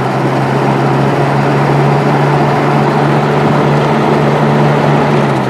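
Vintage Sears box fan running: a steady electric-motor hum under an even rush of air from the blades. Right at the end the motor hum cuts off and the air noise begins to fade as the fan is switched off and winds down.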